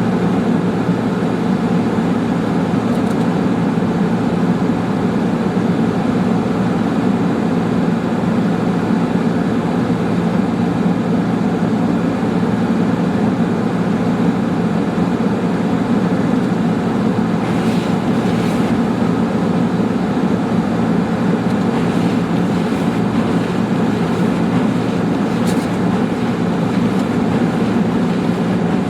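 Steady low drone of car road and engine noise heard inside the cabin while driving, unchanging throughout.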